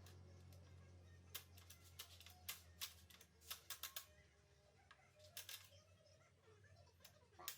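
Faint, scattered sharp clicks and light taps, irregularly spaced, over a low hum that fades away over the first few seconds.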